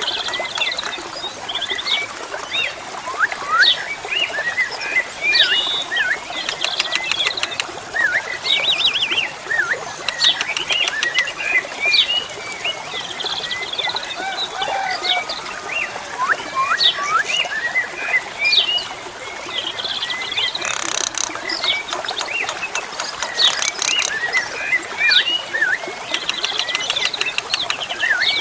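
Asian pied starling singing a long, varied stream of quick whistles and chirps broken by harsh, buzzy rattles.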